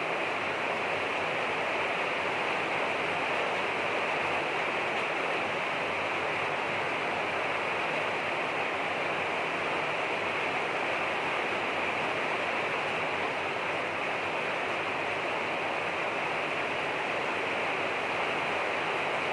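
Steady heavy rainfall: an even, unbroken hiss of falling rain.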